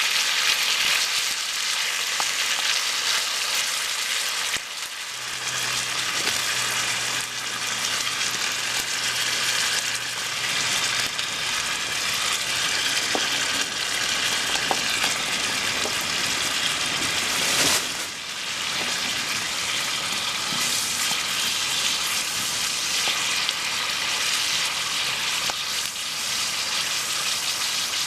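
Ajillo frying in oil in a skillet, a steady dense sizzle. A single sharp click comes about 18 seconds in.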